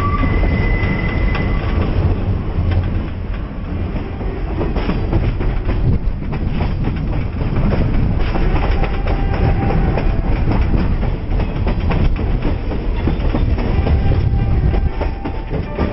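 Passenger train running along the track: a steady rumble of wheels on the rails with clickety-clack, and a faint high wheel squeal in the first couple of seconds.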